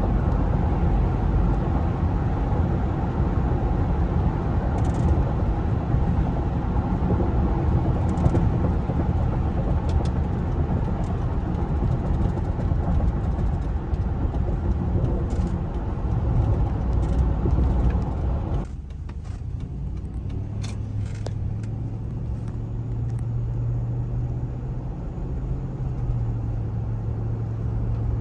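2005 Cadillac Escalade with its 6.0-liter Vortec V8 on the move, a steady dense rumble of engine and road noise. About two-thirds of the way through the rumble drops away suddenly, leaving a quieter, steady low drone.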